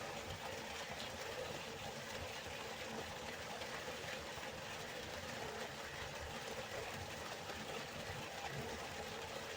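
River water flowing steadily: an even rushing noise that does not change.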